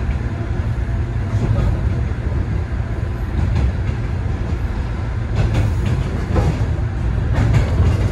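A 103 series electric commuter train heard from on board while running: a steady low rumble of wheels and running gear, with a few knocks from the wheels on the rails in the second half.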